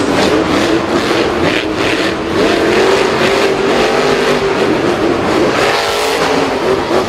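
Monster truck engines revving during a race, their pitch rising and falling continuously.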